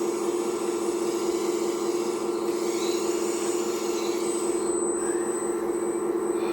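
Hydraulic pump of a radio-controlled scale excavator running with a steady electric whine. Higher thin tones shift about halfway through, with a short rising tone about five seconds in, as the hydraulic controls are worked.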